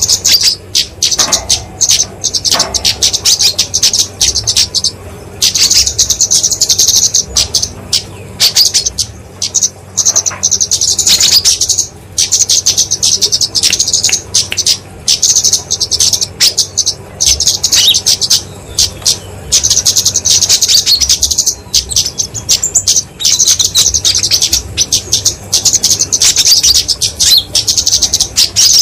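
Flowerpeckers (kemade, genus Dicaeum) giving agitated fighting calls: very fast, high-pitched chattering chirps in repeated bursts of one to two seconds, with short gaps between.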